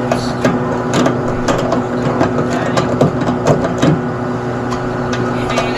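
A steady electrical or machine hum, with scattered clicks and knocks from work going on.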